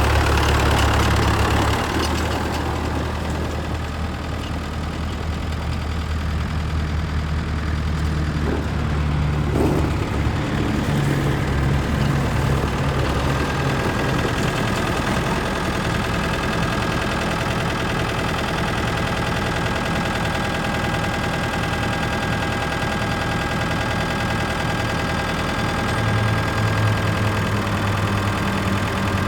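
Ford 5000 tractor engine running at idle, its speed shifting a few times.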